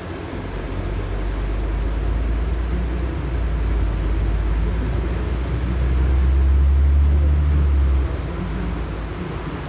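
LiAZ-6213.65 articulated city bus driving, heard inside the passenger cabin: a steady low engine and road rumble that grows louder about six seconds in and drops back suddenly about two seconds later.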